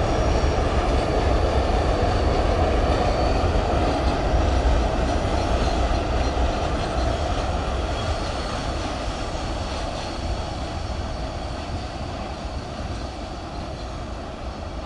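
Freight train rolling on the rails, a steady rumble of wheels and wagons that fades gradually as it moves away.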